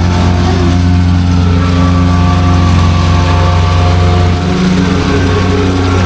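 Vibratory plate compactor running flat out as it compacts a layer of crushed gravel, a loud steady engine drone with the plate's shaking mixed in. Its note wavers briefly about four seconds in.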